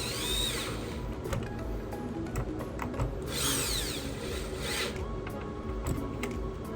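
Small electric screwdriver whirring in two short runs while backing out screws: one ending about half a second in, another starting about three seconds in and lasting about a second and a half, with light clicks of screws and tools between.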